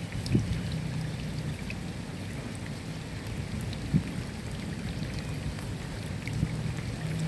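Steady rain, with scattered drops ticking and a dense low patter. Two brief, louder low thuds stand out, about half a second in and about four seconds in.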